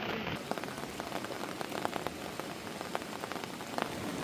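Heavy rain falling steadily, with many separate drops ticking sharply on a surface close by.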